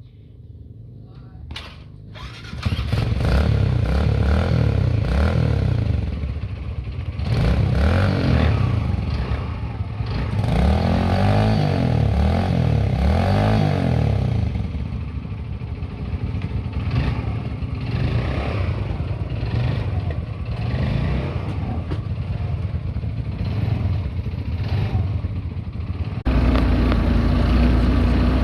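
A dirt bike engine starts about two seconds in and is revved up and down again and again, pitch rising and falling. Near the end it changes abruptly to a steadier, deeper engine note.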